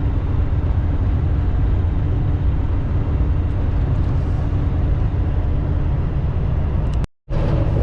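Semi-truck engine and road noise heard from inside the cab, a steady low drone as the truck pulls a hill. The sound cuts out for a moment about seven seconds in.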